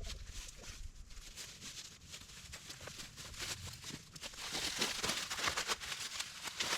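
Irregular light rustling and crackling, many small clicks that grow busier about two thirds of the way through.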